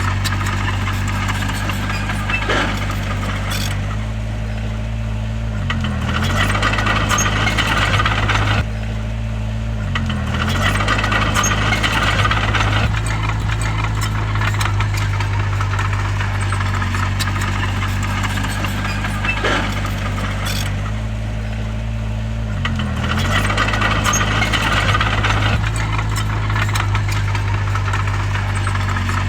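Heavy diesel engine of a bulldozer running steadily, its pitch dipping briefly and recovering three times as it takes load. Stretches of metallic rattling lasting a few seconds come and go over the engine.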